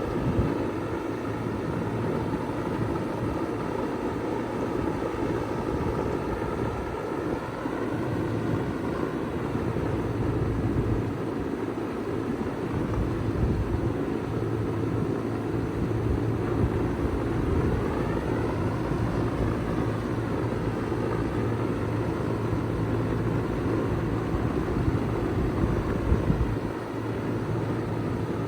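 2004 Bard wall-hung heat pump running steadily in heat mode: a steady low hum under an even rush of air, with a faint higher tone that slowly wavers up and down.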